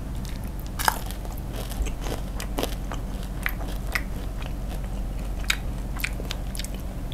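Crispy fried chicken being bitten and chewed close to the microphone: a loud crunch about a second in, then irregular crisp crunches as the crunchy coating is chewed.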